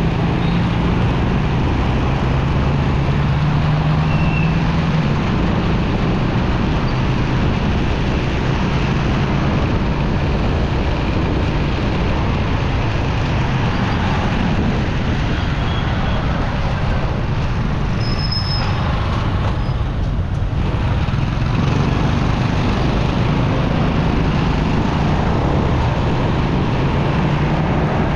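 Motorcycle riding through busy city traffic: the bike's engine runs steadily under a constant rush of wind and road noise, with other traffic around.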